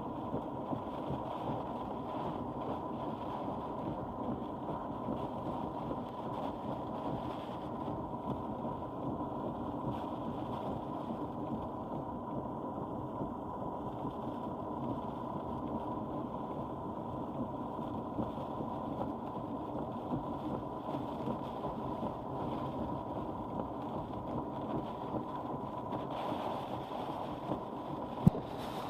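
Steady rumble of a car driving in hurricane wind and rain, heard from inside the cabin, with a thin steady whine above it. There is one sharp click near the end.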